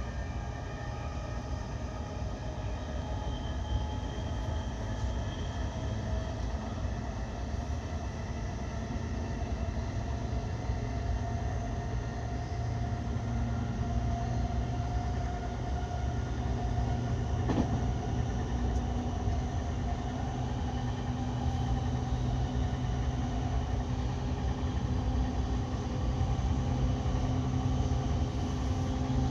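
E217-series electric train running at speed: steady wheel-on-rail rumble with a few steady motor tones, growing gradually louder. There is a single sharp click about seventeen seconds in.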